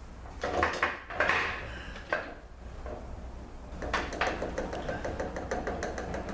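Hand tools and steel transmission parts clanking against a GM 200-4R transmission case while the center support is worked loose, then a run of quick metallic ticks from about four seconds in.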